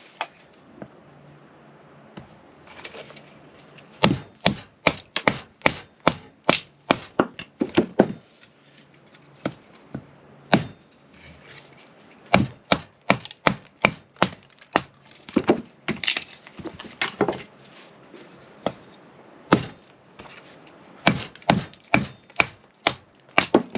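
Kindling being split with a chopping tool: runs of sharp wooden strikes, about two a second, with short pauses between the runs as each piece is set up.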